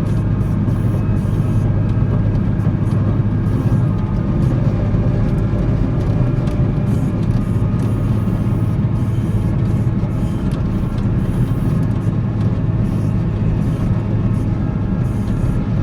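Volvo L70C wheel loader's diesel engine running steadily, with faint light clicks and rattles over it.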